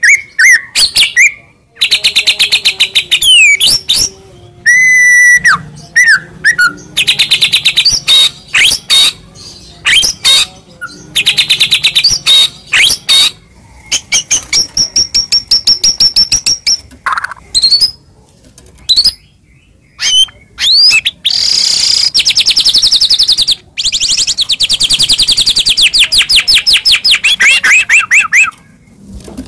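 White-rumped shama (murai batu) singing loudly and continuously: rapid runs of fast repeated high notes and trills, broken by a few lower whistles and short pauses.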